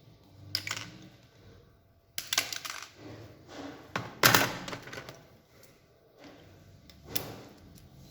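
Clicks and clatter of small hard parts of a pincer robot model being handled and taken apart. The sounds come in separate knocks: one about half a second in, a cluster about two seconds in, the loudest about four seconds in, and one more near the end.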